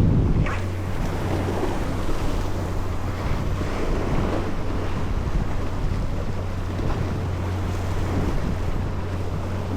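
Wind buffeting the microphone and water washing, over a steady low hum from the boat's engine.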